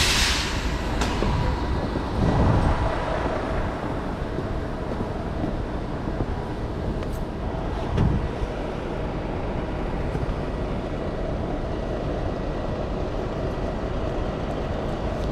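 A steady engine-like mechanical rumble, with two brief louder low swells about two and a half and eight seconds in.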